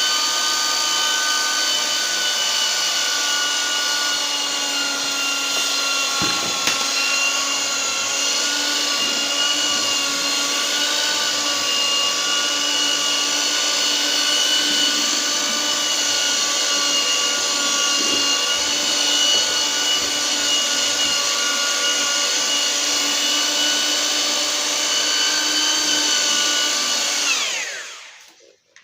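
Electric mortar mixer's motor spinning up, running steadily under load while it mixes a sand-cement mortar, then winding down and stopping near the end.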